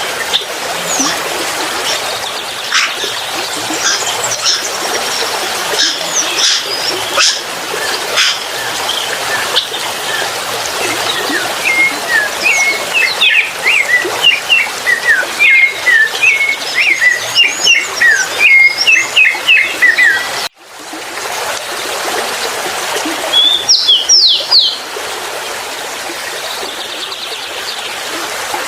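Wild birds chirping and calling in quick, repeated short notes over a steady rushing background noise. The sound cuts off abruptly about two-thirds of the way through and picks up again with more chirps.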